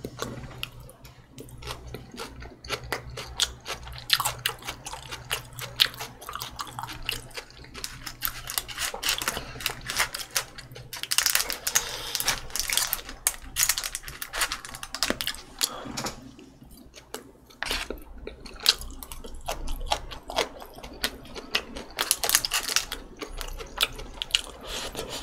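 A person chewing food close to the microphone: wet mouth clicks and crunching, with denser crackly spells about eleven seconds in and again near the end.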